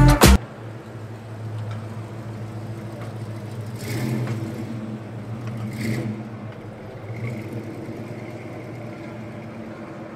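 A car engine running steadily, rising briefly twice.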